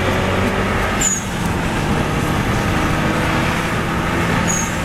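Subaru Legacy Blitzen's engine running steadily under road and tyre noise, heard from inside the cabin. A short, high, falling chirp comes about a second in and another near the end.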